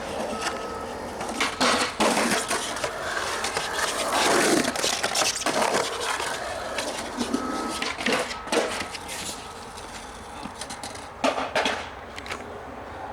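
Skateboard rolling and scraping, with several sharp clacks of the board hitting the ground.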